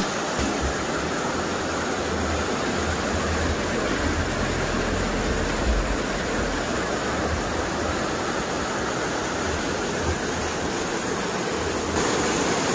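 Waterfall with a steady rush of falling water, getting louder and hissier near the end.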